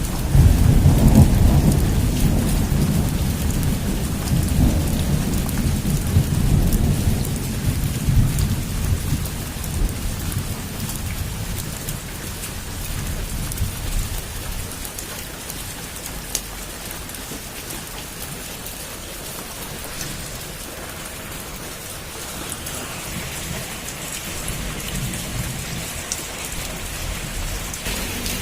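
Heavy rain falling steadily, with a long rolling rumble of thunder that breaks in right at the start and fades away over about ten seconds; a fainter rumble of distant thunder returns near the end.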